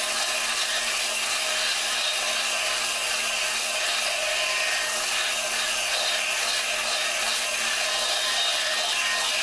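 Drill spinning an engine valve against its seat in a Dodge 4.7 cylinder head, the lapping compound grinding with a steady, even rasp over the drill's motor.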